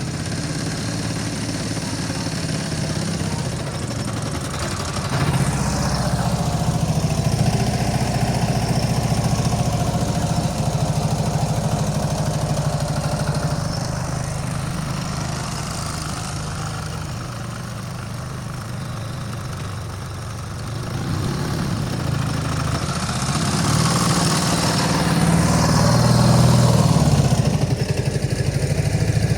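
Ural M67-36 motorcycle's flat-twin engine running, its revs rising about five seconds in and again for several seconds in the second half.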